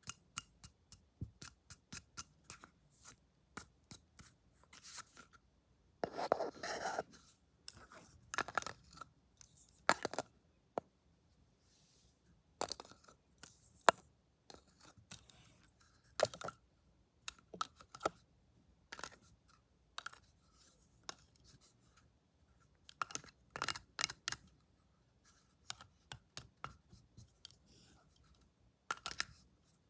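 Scissors snipping close to the microphone in runs of short, crisp snips, with a louder rustle about six seconds in.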